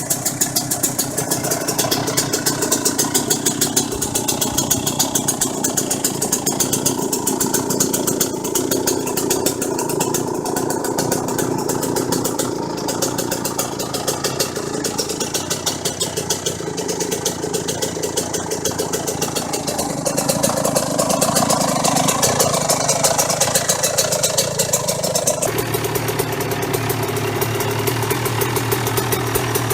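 Suzuki RM 125 two-stroke single-cylinder engine running through an aftermarket exhaust, mostly at idle with some changes in revs. About 25 seconds in it cuts abruptly to another bike's engine, lower in pitch.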